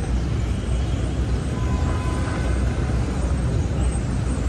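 Busy city street traffic: a steady low rumble of vehicles passing.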